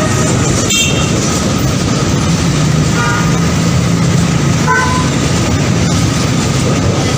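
Train running on the rails, a loud steady rumble and rail noise, with two faint short horn notes about three and five seconds in.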